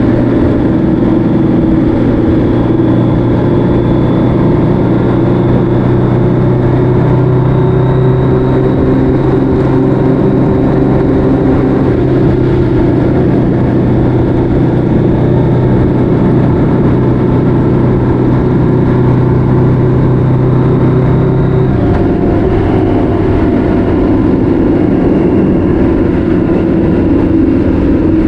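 Motorcycle engine running steadily at cruising speed under a constant rush of wind and road noise. About three quarters of the way through, the engine note drops as the throttle eases off.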